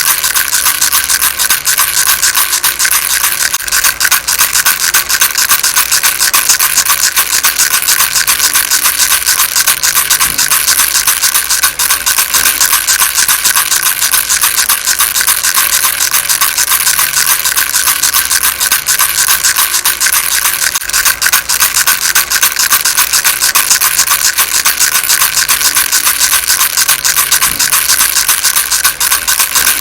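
Baby rattle shaken fast and without pause: a steady, bright, rapid rattling.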